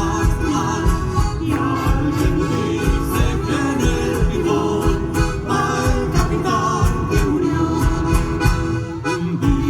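Live Chilean folk music: singing over instruments with a steady beat.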